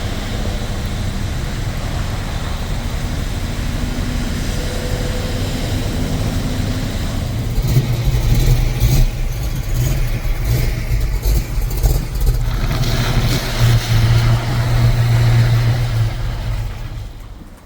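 Ford Falcon hardtop car engines running with a loud low rumble, growing heavier with blips of revving from about halfway through, then falling away sharply at the very end.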